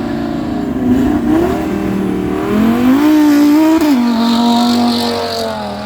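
Car engine revving: it climbs briefly about a second in, then revs higher and holds, and drops back suddenly near the end to a steadier lower note.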